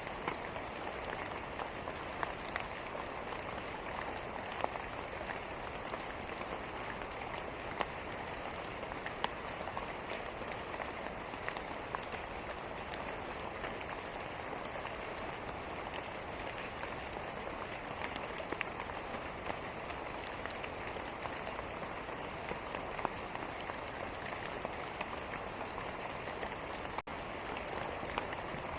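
Steady rain falling: an even hiss with scattered sharp drop ticks. A momentary dropout near the end.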